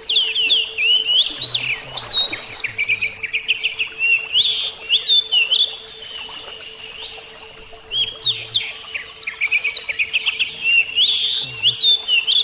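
Oriental magpie-robin (kacer) singing a loud, rapid string of varied chirps and whistles. The song breaks off for about two seconds in the middle, then starts again. A faint steady hum runs underneath.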